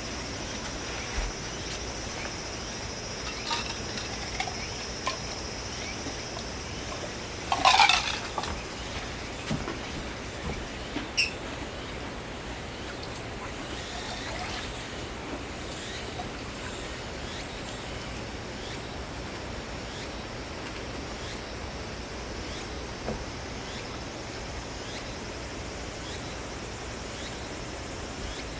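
Insects calling: a steady high buzz that stops about twelve seconds in, then a regular high chirp repeating a little under twice a second. A short, louder noise breaks in about eight seconds in.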